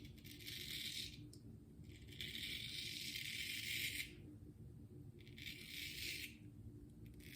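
Shaving brush working wet lather over a stubbly face: three long, hissy, bristly strokes, the last one shorter.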